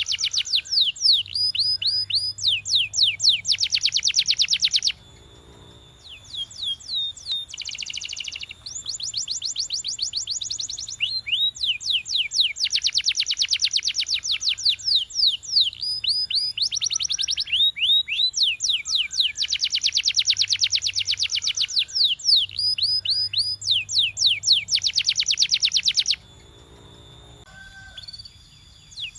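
Canary singing: long, fast trills of rapidly repeated downward-sweeping notes alternating with slower runs of separate notes, with two short pauses, about five seconds in and near the end.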